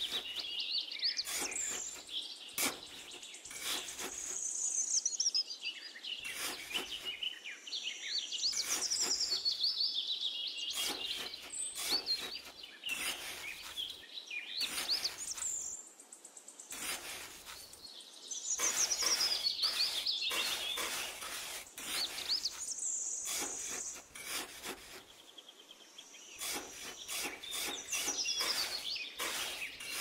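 Birds chirping and singing in quick, high calls throughout, over repeated short scrapes and taps of a small trowel working damp sand and cement mortar.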